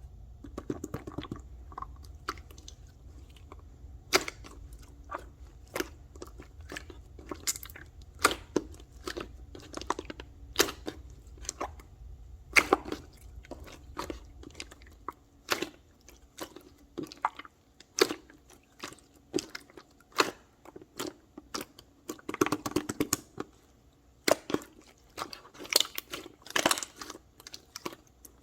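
Close, irregular crunching and crackling clicks, denser near the end, over a low hum that stops about halfway through.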